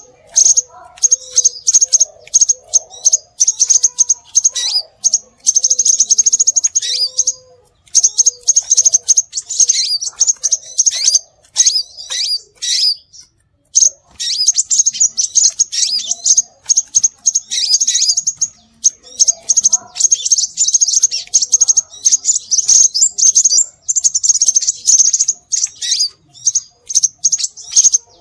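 Scarlet minivet calls played as a bird-luring track: long runs of rapid, high chirps with brief pauses, plus quieter lower notes under the first few seconds.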